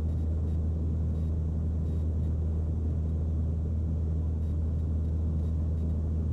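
Steady low drone of a Mooney M20C's four-cylinder engine and propeller in flight, heard from inside the cockpit.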